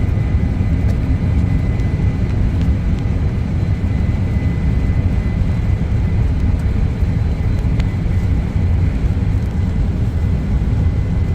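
Boeing 747 jet engines running: a steady, loud low rumble that holds level throughout, with a faint high whine.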